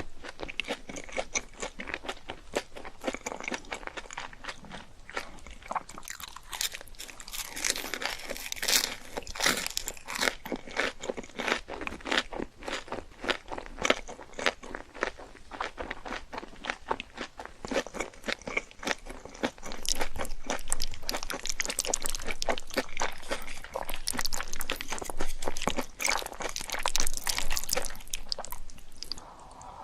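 Close-miked biting and chewing of crunchy fried food: a dense run of crackling crunches that grows louder for a stretch in the last third.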